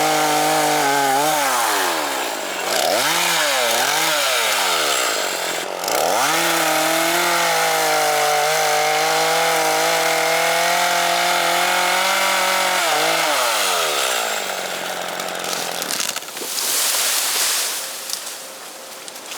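Chainsaw running at high revs while cutting bamboo, the throttle eased off and opened again several times early on, then released so the engine falls away a little after halfway. Near the end comes a short burst of rustling noise.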